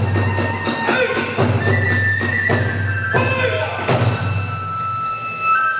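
Kagura hayashi: a bamboo flute plays long held notes over drum and small hand-cymbal strokes. The strikes come quickly at first and thin out to a few single hits after about a second.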